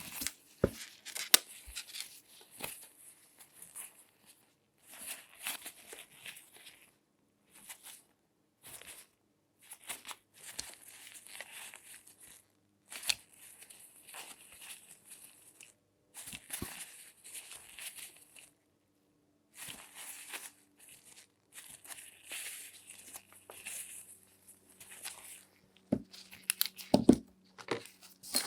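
Close-miked latex-gloved hands handling and rubbing things, giving crinkly, scratchy rustling in short bursts one to three seconds long, broken by brief silences and a few sharp clicks.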